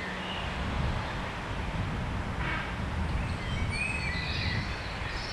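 Evening woodland ambience: a steady low rumble with faint, scattered chirps of small birds. About two and a half seconds in there is one short, harsh call from a distant grey heron at its nest.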